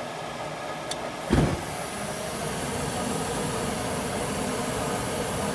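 Goodman gas furnace lighting. A click about a second in, then the gas burners ignite with a low thump and settle into a steady burning rush that grows slightly louder, over the hum of the draft inducer.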